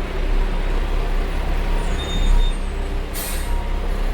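Peterbilt 520 garbage truck's diesel engine running steadily, with a short burst of air hiss about three seconds in.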